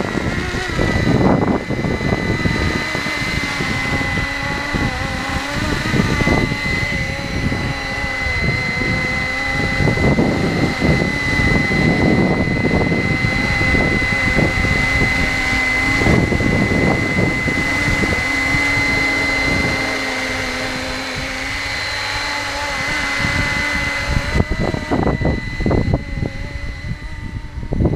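Electric motor and rotors of a Flywing BO105 470-size RC helicopter giving a steady high whine as it flies, over gusty wind buffeting the microphone. The whine fades near the end as the gusts grow sharper.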